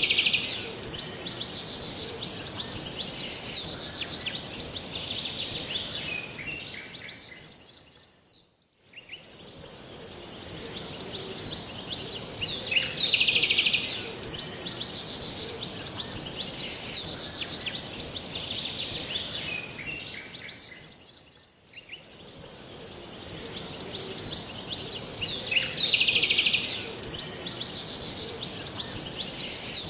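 Small birds chirping over a steady high hiss, with a louder flurry of chirps about every 13 seconds. The sound fades almost to nothing and back twice, near 9 and 21 seconds in, as in a looped recording.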